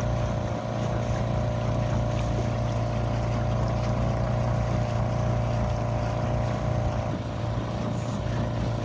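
Small outboard motor running steadily, driving a dinghy along; its higher engine note eases off about seven seconds in.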